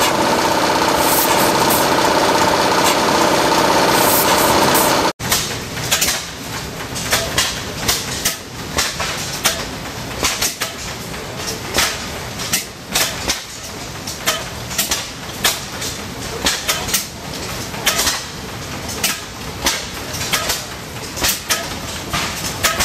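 Stationary engines running. First comes a loud, steady, busy running sound. After an abrupt cut, an engine fires in sharp, irregularly spaced exhaust pops, about one or two a second.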